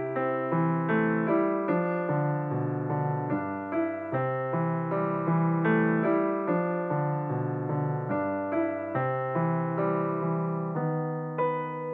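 Background piano music: notes struck at a steady, unhurried pace, each ringing and fading, over low sustained bass notes.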